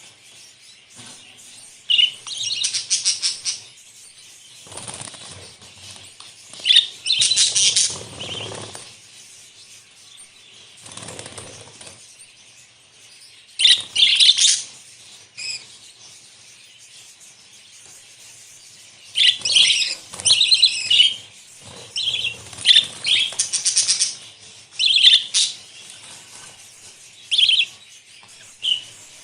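A flock of budgerigars chirping and warbling in bursts every few seconds, with flurries of wing flapping among them.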